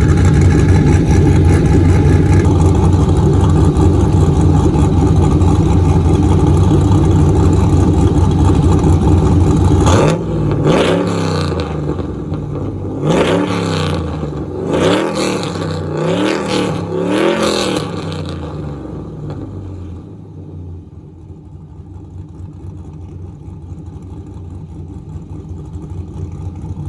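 Cammed 5.3 L V8 breathing through a Carven R-series muffler, idling steadily. About ten seconds in it goes quieter and is revved in a series of short throttle blips, the pitch rising and falling with each one. Then it settles and fades to a quieter idle.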